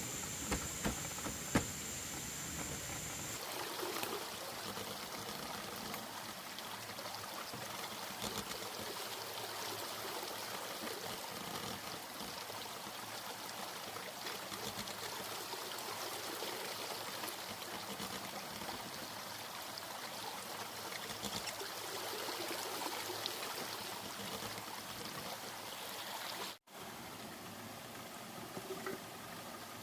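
Steady rushing water, like a stream. A thin high tone runs through the first three seconds or so, and a few sharp clicks come near the start.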